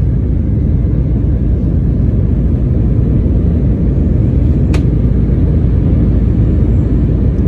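Steady low roar of an airliner's cabin during the climb after takeoff, engines at climb power, heard from inside the passenger cabin. A single short click a little under five seconds in.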